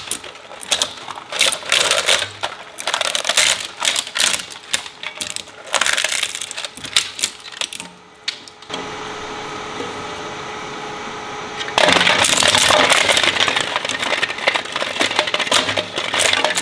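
Industrial shredder chewing up plastic with rapid irregular cracks and snaps for about eight seconds. Then its motor runs unloaded with a steady hum for about three seconds, before a loud dense grinding as more material goes through the blades.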